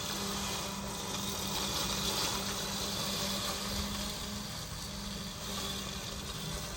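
Mammotion Luba 2 robotic lawnmower running and cutting tall grass: a steady electric hum with an even hiss over it.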